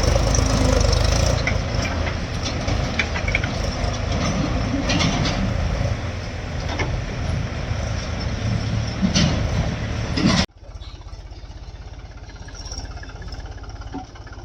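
Heavy diesel machinery running hard, with scattered clanks and knocks over the engine noise. About ten seconds in, the sound cuts off abruptly and a quieter engine is heard running steadily.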